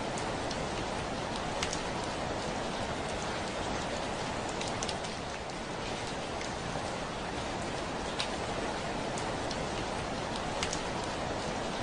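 Steady heavy rain falling on a window, a dense hiss with scattered sharper ticks of individual drops striking the glass.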